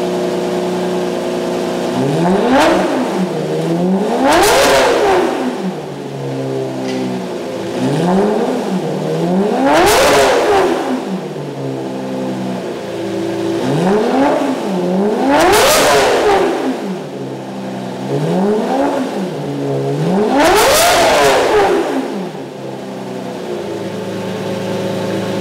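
Lamborghini Murciélago V12 through a Larini complete exhaust system (race pipe and sport cat), idling and revved in place. Four times, a short blip is followed by a bigger, higher rev, each falling back to idle.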